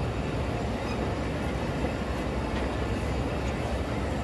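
Passenger train pulling slowly out of a station, heard from an open coach doorway: a steady low rumble of the coaches rolling on the rails.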